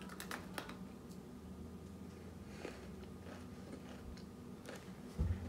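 A person biting into a milk-dunked Oreo Most Stuf sandwich cookie, with a few sharp clicks as the bite is taken, then soft, quiet chewing. A short low thump comes near the end.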